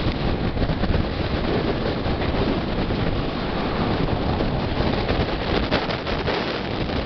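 Wind rushing over the microphone at the open doorway of a moving Mumbai suburban local train, mixed with the train's steady running noise on the track.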